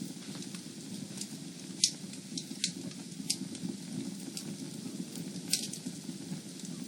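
Wood fire burning in a fireplace: a steady low rustle of flames with scattered sharp crackles and pops, the loudest about two seconds in and again about five and a half seconds in.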